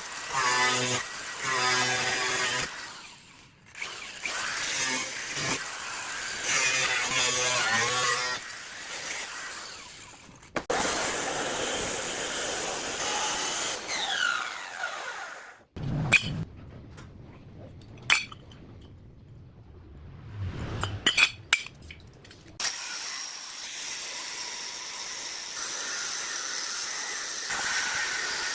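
Workshop power tools in a string of short cuts: a whining tool with a steady pitch at first, then stretches of rough cutting or grinding noise with clicks and knocks, and a steady hiss near the end.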